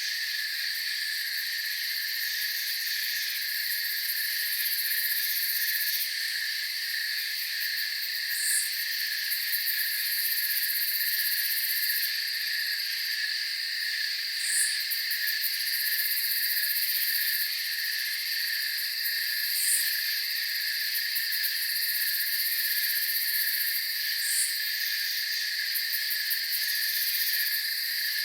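Night chorus of crickets: steady, dense high trilling, with a short higher call about every five seconds.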